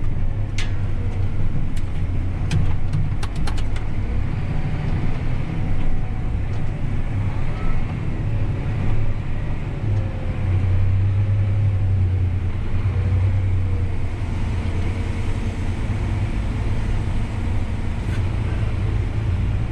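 Tractor engine running steadily under load, heard from inside the cab while it pulls a grain cart at about 4 mph, with a low, even drone. A few light clicks come in the first few seconds.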